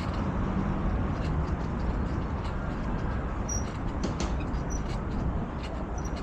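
Steady wind and road rumble from a bicycle being ridden, with scattered light clicks and rattles.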